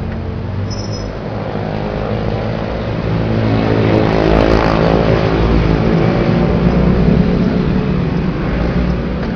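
A motor vehicle engine running, growing louder through the middle and easing off near the end.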